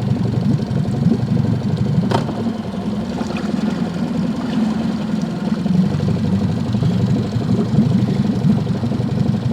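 Boat's outboard motor idling steadily, with one sharp click about two seconds in.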